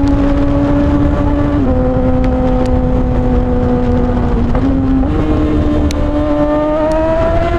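Suzuki GSX-R600 K6 inline-four running loud through a straight-piped M4 exhaust with no cat, held at high steady revs. The pitch steps down about a second and a half in, sags slowly, then steps up twice around the five-second mark and climbs steadily near the end, over a low wind rumble.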